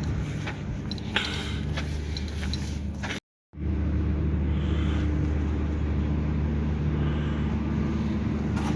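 Engine running steadily with a low, even drone. The sound cuts out completely for a moment about three seconds in, then resumes slightly louder.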